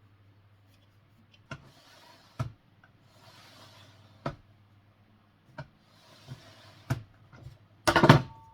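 Handling noises: a series of sharp clicks and knocks with soft scraping or sliding between them, and a louder clatter near the end, over a faint steady hum.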